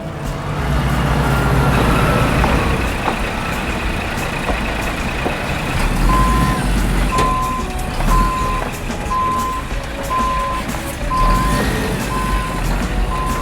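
Truck engine running with a low rumble; about six seconds in, a reversing alarm starts beeping about once a second.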